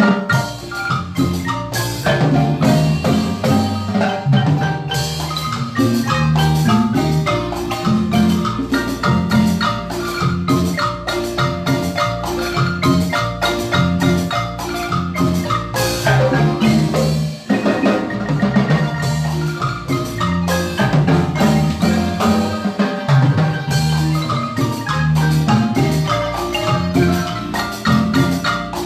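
Guatemalan marimba ensemble playing a lively tune: dense runs of struck wooden-bar notes over a deep bass line, with a brief dip about halfway through.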